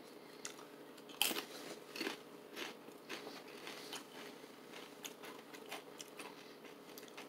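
Corn tortilla chip crunching as it is bitten and chewed: one sharp bite about a second in, then softer, irregular crunches of chewing.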